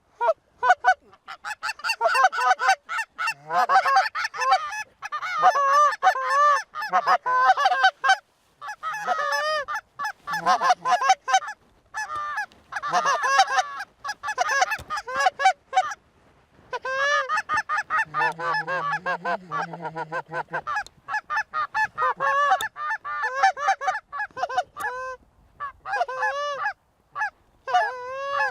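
Canada goose honks and clucks in fast, overlapping runs, several calls a second, breaking off briefly a couple of times.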